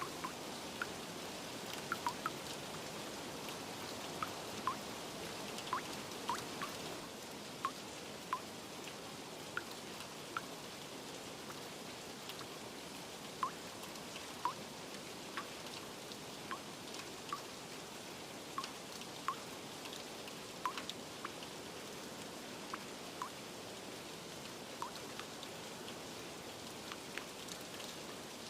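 Steady rain falling, with irregular single drops plinking close by.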